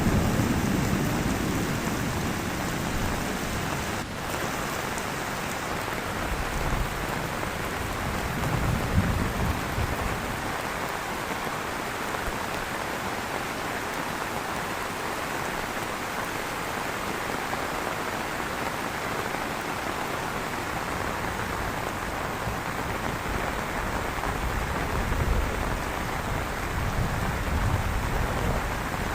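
Heavy tropical rain falling steadily on the ground and surfaces. A low thunder rumble fades out in the first second, and fainter low rumbles swell twice later on.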